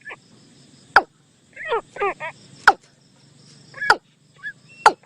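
Bird decoy call (เสียงต่อ) of the นกตูม, played to lure birds: sharp loud notes every second or so, and between them quick runs of falling chirps.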